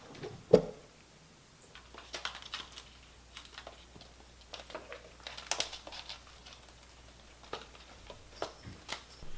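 Kittens playing: the patter of paws with scattered taps, scratches and light crinkling. There is one loud thump about half a second in.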